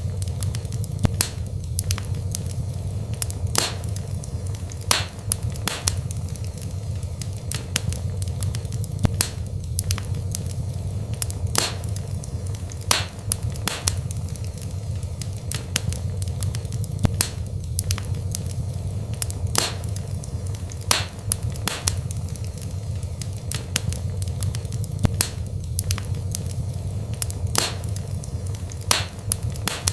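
Wood burning in a fireplace: sharp, irregular crackles and pops, a few a second, over a steady low rumble.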